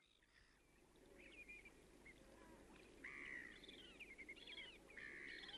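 Birds calling faintly and repeatedly over a low background rumble, fading in from silence at the start.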